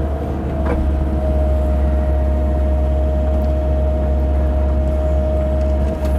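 CAT 308 mini excavator's diesel engine running steadily under digging load: a constant low drone with a steady high tone over it. There is a faint knock about a second in.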